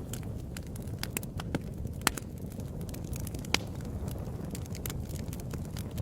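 Wood fire in a fireplace crackling, with frequent sharp pops over a steady low rumble of burning; two louder pops stand out, about two and three and a half seconds in.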